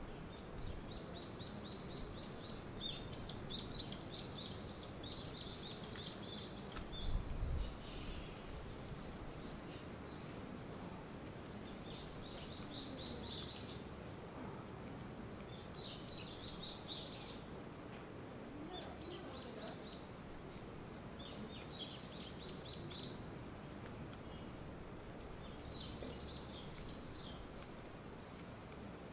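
A small songbird sings short phrases of rapid repeated high notes, about nine of them a few seconds apart, over a steady low background rush. A brief low rumble comes about seven seconds in.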